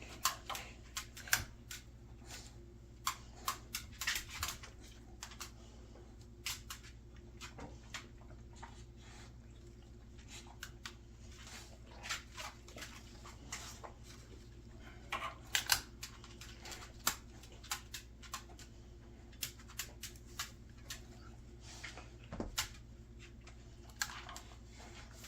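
Paper and kindling crackling in a wood stove as a newly lit fire catches, with irregular scattered snaps, a few louder ones about four seconds in and again around the middle.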